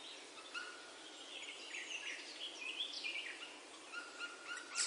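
Faint birds chirping: short high calls at varying, stepping pitches over a light steady hiss.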